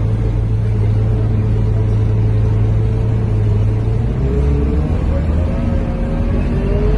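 A Scania K230UB bus's diesel engine and drivetrain running, heard from inside the cabin, with a strong steady low hum. About four seconds in, the low note drops and rising whines come in.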